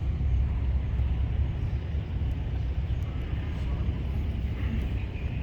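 A vehicle engine running steadily with a deep, low rumble.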